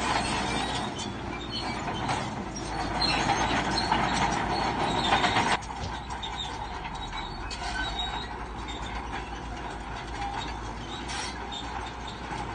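Crawler bulldozer working, its steel tracks squealing and clanking over the engine's running noise; the sound drops abruptly to a lower, steadier level about halfway through.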